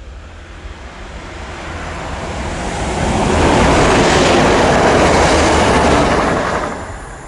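A train passing close by at speed: the rumble and rail noise swell as it approaches, hold loud while the carriages go past, then fall away quickly once the end of the train has passed.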